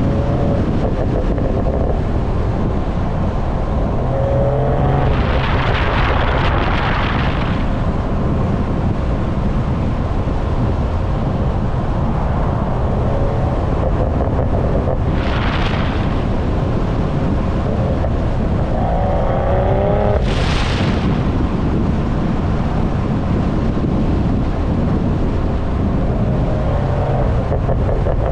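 BMW M340i's turbocharged inline-six heard from the rear while driving, buried under heavy wind buffeting on the microphone. The engine pitch rises a few times, and short hissing rushes come several times, about 5, 15 and 20 seconds in.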